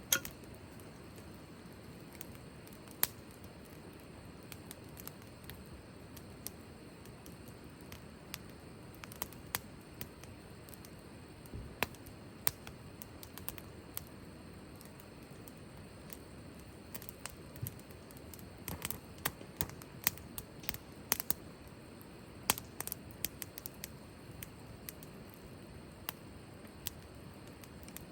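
Wood campfire burning with a steady low hiss and irregular sharp crackles and pops, which come more thickly in the second half.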